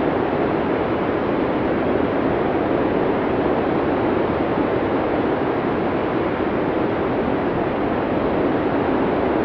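Blizzard wind sound effect: a steady, dense rush of storm wind without gusts or breaks.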